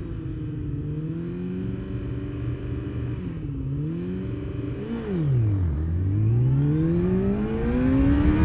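600cc sportbike engine held at steady revs, then the clutch is dropped about five seconds in. The revs sag sharply as the engine bogs down, then climb steadily as the bike pulls away hard in first gear.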